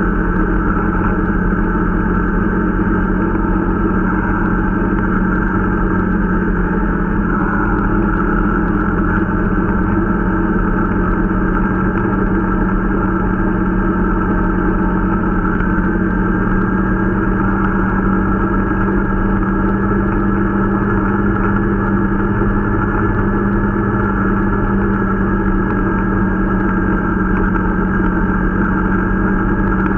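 Irbis Dingo T125 snowmobile's small 125 cc engine running at a steady speed while being run in, its pitch holding level throughout.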